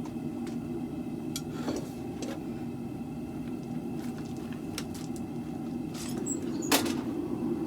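Propane forge burner running with a steady roar, with scattered light clicks and one sharp knock about seven seconds in.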